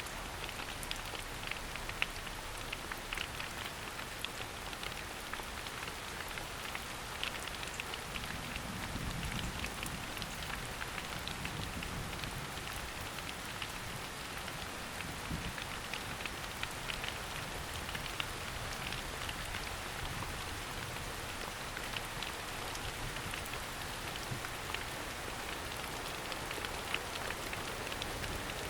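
Steady rain falling in a forest: an even hiss with many separate drops ticking through it.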